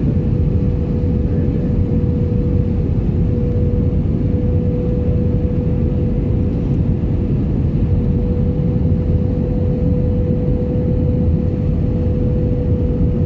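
Airliner cabin noise in flight: a steady low rumble of engines and airflow with a constant mid-pitched hum running through it.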